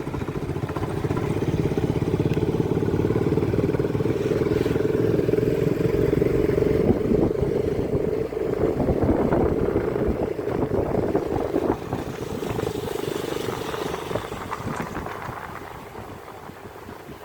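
A motor vehicle running along the road, its engine and road noise steady, growing quieter over the last few seconds.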